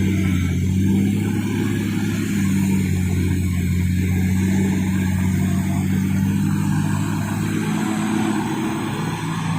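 Nissan TZA 520 dump truck's diesel engine running steadily at a fairly even pitch.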